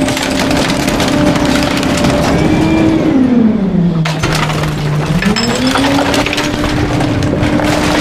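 Garbage truck packer compacting bulky waste: the engine and hydraulics run with a steady drone while items crack and splinter under the blade. About three seconds in the engine pitch drops, holds low for about two seconds, then rises back.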